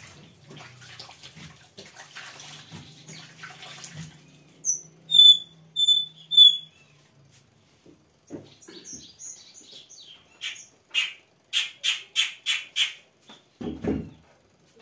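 A bird chirping: three loud, sharp, high chirps about a second in from the middle, then a quick run of chirps later on. Before the chirps there is a soft hiss with a low hum, and near the end a dull thump.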